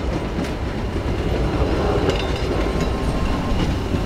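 Passenger cars of a 600 mm narrow-gauge park railway train rolling past: a steady rumble of wheels on the rails, with scattered clicks from the rail joints.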